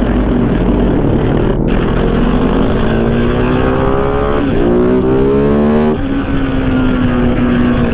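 Motorcycle engine accelerating: the engine pitch climbs, breaks at an upshift about four and a half seconds in, climbs again, then drops at the next shift and holds steady. Heavy wind noise runs over it throughout.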